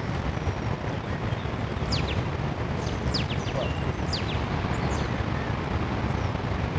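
Several short, high, downward-sweeping bird chirps, bunched about two to four seconds in, over a steady low outdoor rumble.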